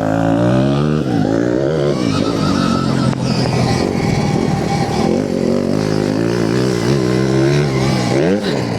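Stark Varg electric motocross bike being ridden: the electric motor's whine rises and falls in pitch with the throttle several times, over a steady rough noise.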